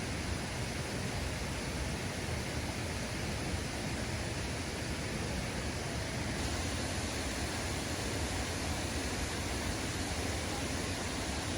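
Waterfall and flowing water making a steady, unbroken rush.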